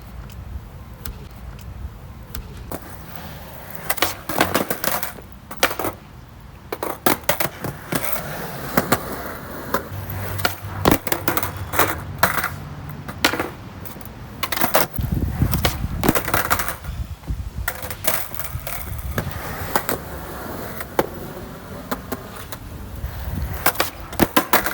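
Skateboard rolling on pavement with the low rumble of its wheels, broken by repeated sharp clacks and slaps of the board's tail popping and the deck and wheels landing, as kickflip attempts are made over and over.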